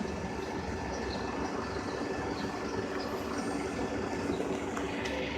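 Steady city street traffic noise with a vehicle engine idling, a low continuous hum.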